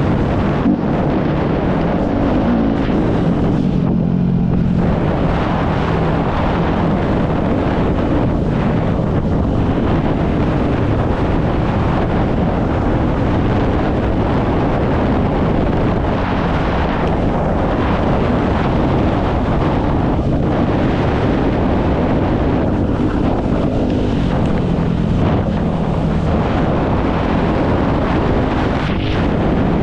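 Off-road dirt bike engine running under way, its pitch rising and falling with the throttle, with heavy wind buffeting on the microphone.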